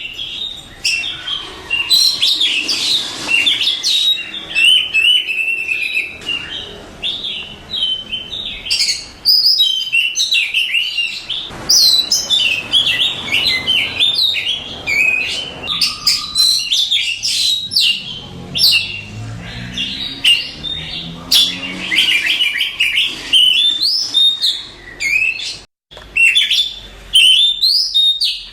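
Oriental magpie-robin singing a loud, fast, varied song of high whistled notes and rapid note runs, with barely a pause, broken once briefly near the end.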